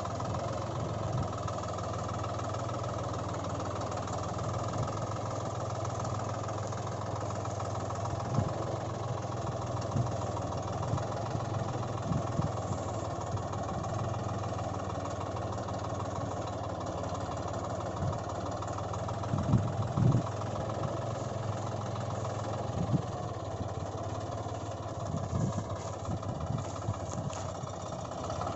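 An engine idling steadily, with a few low thumps scattered through, the loudest two about two-thirds of the way in.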